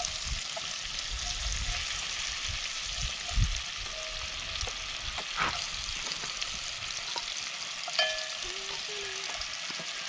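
Crayfish sizzling and frying as they are tipped from a steel bowl into hot vegetable oil in a cast-iron skillet over a wood fire. A few knocks sound over the steady sizzle, the loudest about three and a half seconds in.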